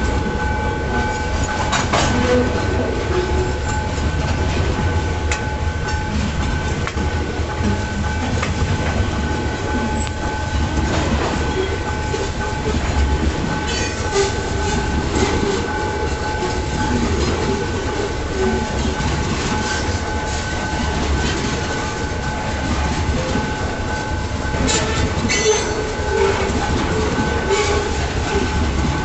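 Freight train wagons rolling past, with a heavy steady rumble and wheels knocking over rail joints. A steady high-pitched tone hangs over the passing wagons.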